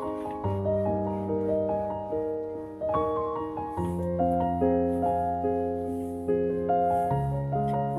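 Soft background piano music: slow sustained chords changing every second or two, with a gentle melody over them.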